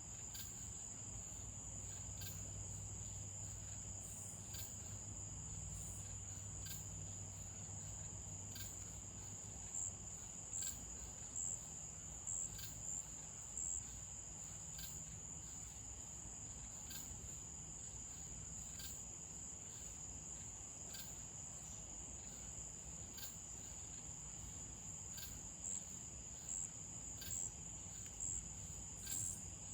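Crickets trilling: a steady high-pitched chorus, with short louder chirps coming in at intervals in two spells.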